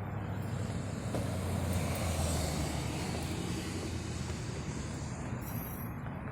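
Motor vehicle engine running steadily, growing a little louder about two seconds in, with road or tyre noise over it.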